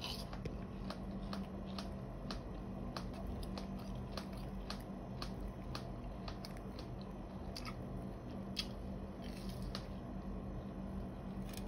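A person biting and chewing a crisp, breadcrumb-coated deep-fried bread snack: faint, irregular crunches, several a second, over a low steady hum.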